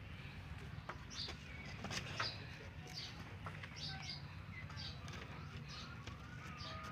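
Small birds chirping in short, high notes, repeating about once or twice a second, over a steady low background hum, with a few light taps about two seconds in.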